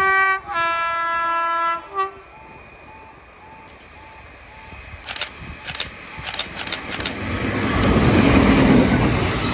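Merseyrail Class 507 electric train sounding its two-tone horn on the approach: a higher note, a longer lower note, then a short blip of the higher one. A faint beep repeats about twice a second under it. A few seconds later several sharp wheel clacks ring out and the train's rumble grows loud as it runs past close by.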